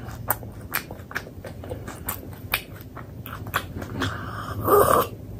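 Close-miked chewing of a mouthful of paratha, with many quick wet mouth clicks. A louder, longer mouth sound comes near the end.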